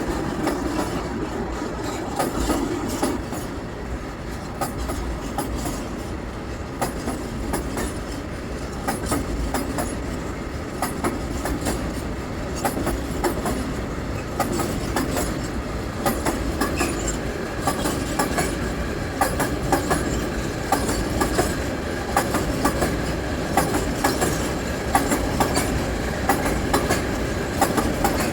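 A train rolling past, its wheels clicking continually over the rail joints, with a faint steady whine from about two-thirds of the way in.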